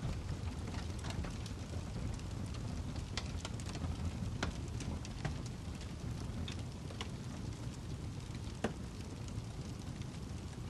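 Wood log burning in a fireplace: a steady low rumble of flames with irregular crackles and pops, the sharpest pop about eight and a half seconds in.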